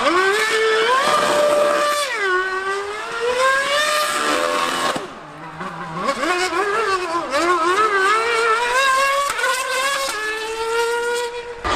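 A Formula One car and a 1000cc Yamaha R1M superbike racing at high revs. The engine pitch climbs, holds and drops again and again through gear changes. The sound fades briefly about five seconds in, then the engines pick up and rise again.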